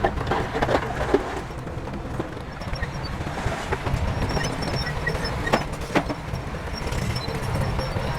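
Heavy diesel earthmoving machinery running steadily, with a few sharp metallic clanks in the first second and again about five and a half and six seconds in.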